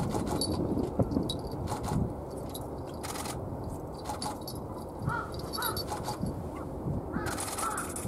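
Short bird calls in the background, a couple about five seconds in and a cluster near the end, over a steady low outdoor rumble with scattered sharp clicks.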